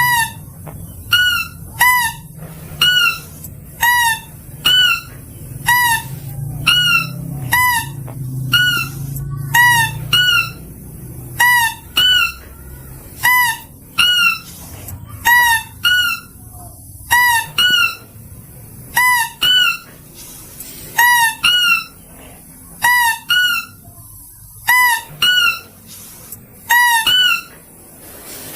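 Mouse-deer (kancil) call used as a hunting lure: short, high, squeaky calls, each rising and falling quickly in pitch, repeated about once a second and often in pairs. A faint low hum runs underneath.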